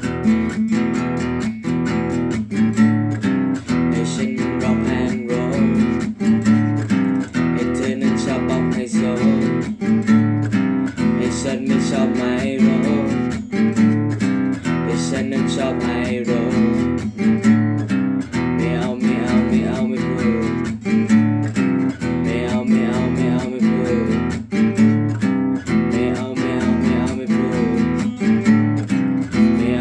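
Acoustic guitar strummed in a steady rhythm, playing the chords of a song without singing.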